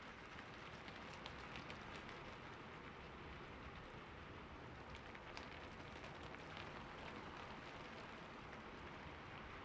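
Steady rain falling on a roof, a soft even patter with scattered individual drops ticking through it.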